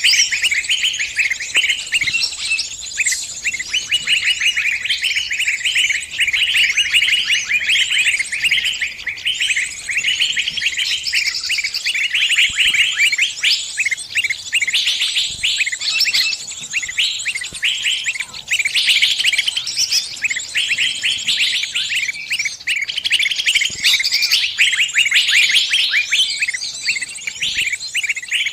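Small bird's distress calls: a dense, unbroken run of rapid, high-pitched chirps, the cry of a trapped bird calling other birds for help.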